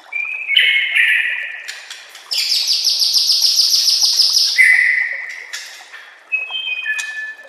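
White-rumped shama (murai batu) singing a varied song: short clear whistled phrases, then a long fast trill of repeated notes lasting about two seconds, then more whistles near the end.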